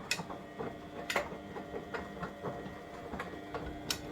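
Beko washing machine running a wash cycle: a steady low hum with irregular clicks and knocks from the turning drum.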